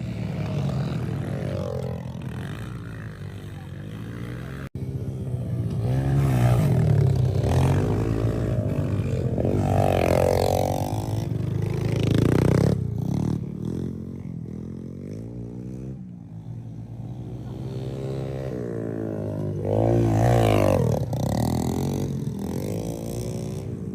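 An engine revving up and down several times, its pitch rising and falling in sweeps, loudest in the middle and again near the end.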